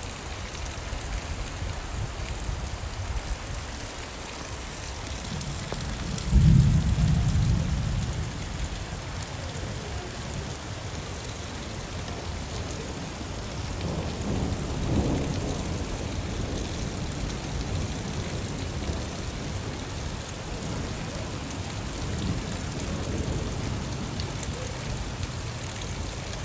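Steady rain falling, with a loud low rumble of thunder about six seconds in that fades over a couple of seconds, and a softer rumble about halfway through.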